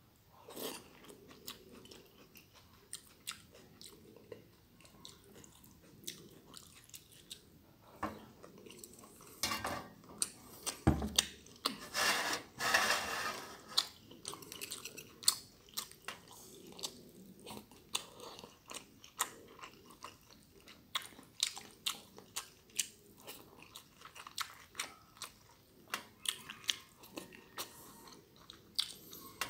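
Close-miked mouth sounds of a person eating stir-fried glass noodles with goat meat and tomato sauce. There is wet chewing with many short sharp mouth clicks, and a louder, noisier stretch of a second or two around the middle.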